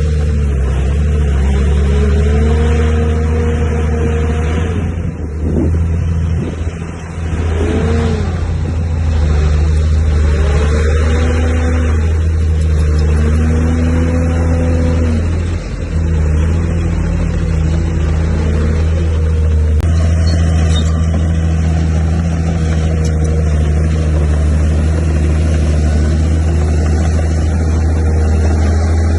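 Heavy construction machine's diesel engine running hard. Its drone holds steady, while higher tones rise and fall several times in the first half and the engine dips briefly a few times.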